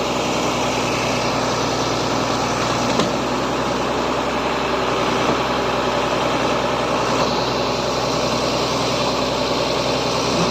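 Engine of a heavy vehicle idling steadily, with an even, unchanging note.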